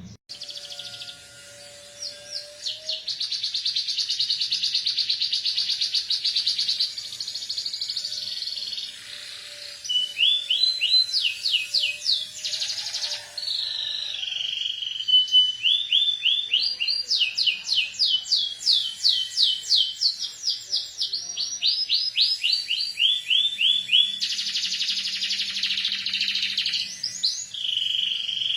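Domestic canary singing continuously, its song filled with learned ciblek gunung (prinia) phrases: long fast buzzy trills alternating with runs of quick, repeated sweeping notes.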